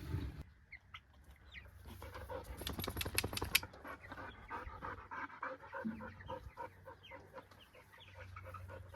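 A dog panting rapidly, loudest from about two seconds in for a second and a half, with young meat chicks peeping faintly throughout.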